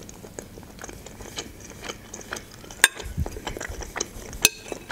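Close-miked chewing of fried chicken hearts and potatoes: a run of small wet mouth clicks, with two sharper clicks about three seconds in and near the end.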